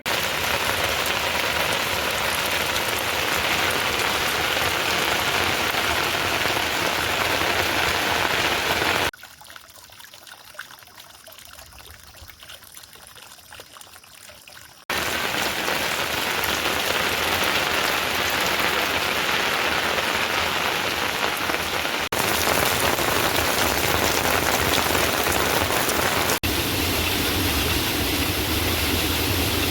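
Heavy rain falling in a steady, even hiss. It drops abruptly to lighter rain for about six seconds in the middle, then returns, with further sudden shifts in level and tone later on.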